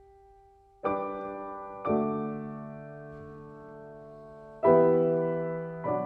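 Slow, gentle solo piano music. After a faint fading note, four chords are struck over the next few seconds, each left to ring and die away.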